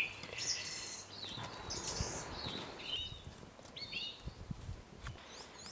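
Small birds chirping in short calls with quick pitch sweeps, about six over a few seconds, above the faint crackle of a small twig campfire.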